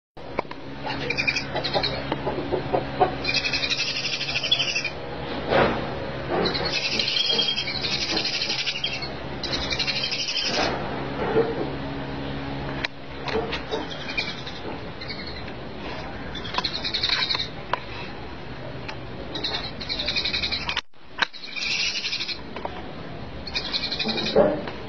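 Birds chirping in high, buzzy trills, each about a second long and repeating every two or three seconds, over a low steady hum that stops about halfway through. A few sharp knocks fall in between.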